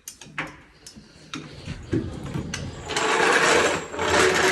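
Clicks and knocks from the clutch pedal being pumped to bleed the clutch hydraulics, then from about three seconds in a dense, fast mechanical rattling.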